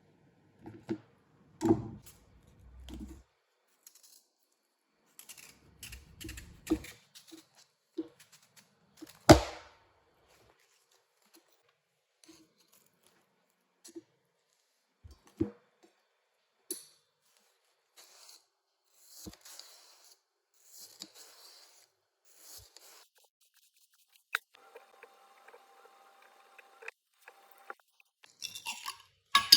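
Scattered light clicks, taps and knocks of objects being handled, one sharper knock about nine seconds in, and a short buzzing hum near the end.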